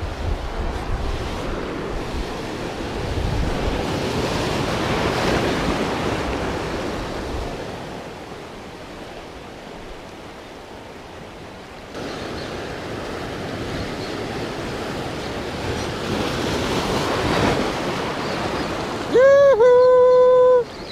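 Sea waves washing and wind blowing across the microphone, the noise swelling up and dying back twice. A loud, held, pitched sound starts near the end.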